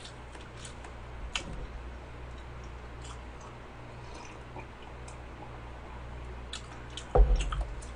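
Close-miked mouth sounds of a person chewing soft cheesecake and drinking from a mug: small wet clicks and smacks spread through. A louder thump comes about seven seconds in.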